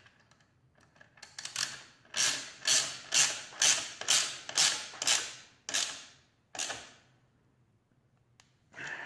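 Ratchet wrench with a 12 mm socket snugging up an exhaust bolt: rasping ratchet clicks on each back-swing, about a dozen strokes at roughly two a second, stopping about seven seconds in once the bolt is snug.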